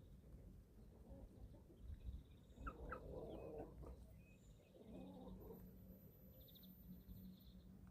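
Young chickens about eleven weeks old peeping and chirping faintly while feeding, in short scattered calls with a few rapid high trills. Two brief soft rustling noises come in, about three and five seconds in.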